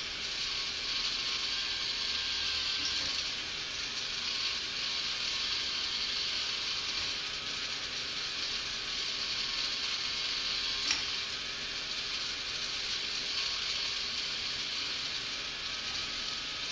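K'nex motor driving a plastic alternating arm lift, a steady mechanical whirr with one sharp click about eleven seconds in.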